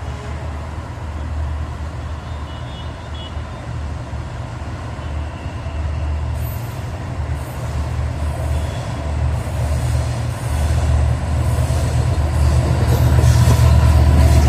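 EMD 6600 series diesel-electric locomotive of an approaching train: a deep, steady engine rumble that grows louder throughout.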